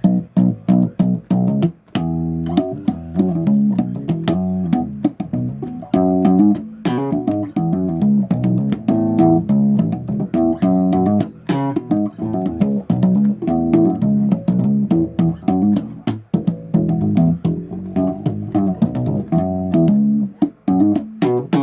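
Bass guitar playing a busy riff of quick plucked notes.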